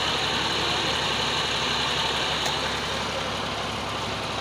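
Tractor's diesel engine running steadily, powering a brick-making machine through a lever driven off its wheel.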